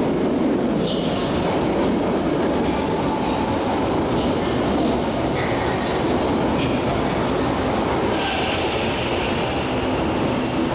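Kintetsu 22600 Series 'Ace' electric train rolling slowly alongside an underground station platform as it comes to a stop: a steady low rumble with a few faint, brief high squeals. About eight seconds in, a sudden loud hiss starts and fades over a second or two.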